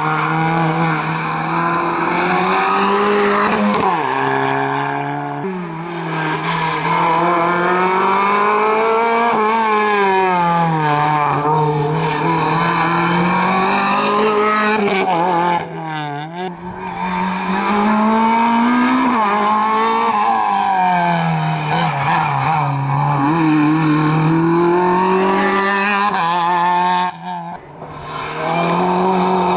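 Rally car engine revving hard on a stage, its pitch rising and falling again and again as it accelerates, lifts and changes gear, with brief dips around the middle and near the end; tyres squeal.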